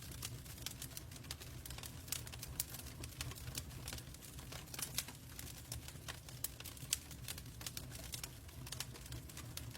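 Log fire crackling in a fireplace: many sharp, irregular pops and snaps over a steady low rumble of burning.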